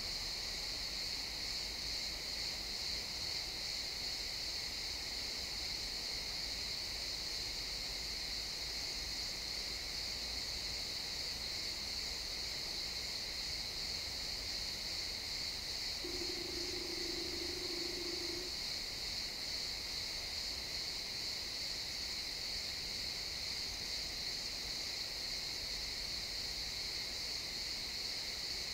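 Crickets chirping in a dense, unbroken chorus: a steady high-pitched trill that does not change.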